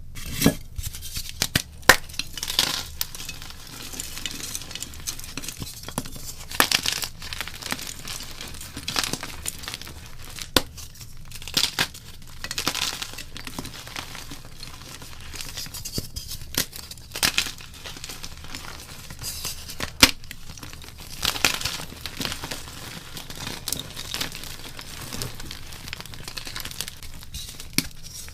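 Block gym chalk being crushed and broken into powder: irregular dry crunches and crumbling snaps, some sharp and loud, at uneven intervals.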